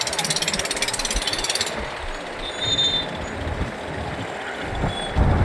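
Motorcycle riding through city traffic. A fast, even mechanical rattle cuts off abruptly about two seconds in, leaving a duller rumble of engine, road and traffic that grows louder near the end.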